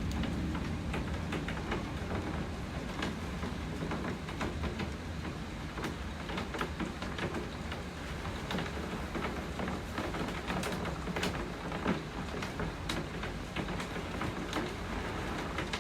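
Rain falling steadily, with many sharp individual drops striking a hard surface over a low, steady rumble.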